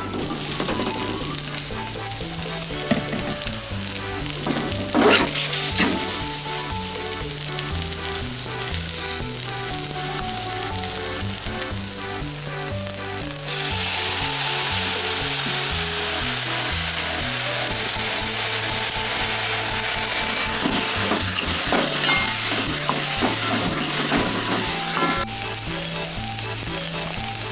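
Onion and small noodle pieces sizzling in hot oil in a wok as they are stir-fried. The sizzle gets louder about halfway through and drops back near the end. Background music with a steady bass line plays underneath.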